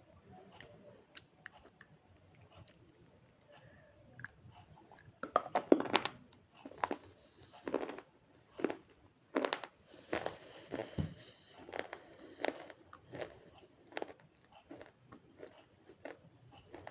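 A person biting and chewing crunchy clay, slate pencil and multani mitti (Fuller's earth). It is quiet for the first few seconds, then from about five seconds in comes a run of crisp crunches, one every half second to a second.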